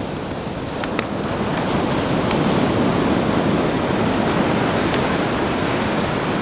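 Sea waves washing ashore, one swell building about two seconds in and easing off, with a few sharp crackles and pops from a wood campfire.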